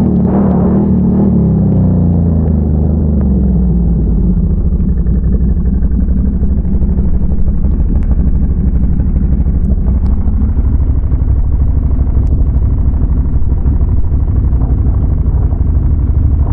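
Can-Am Renegade ATV's V-twin engine running. Its pitch drops over the first few seconds as the throttle comes off, then it settles into a steady low rumble.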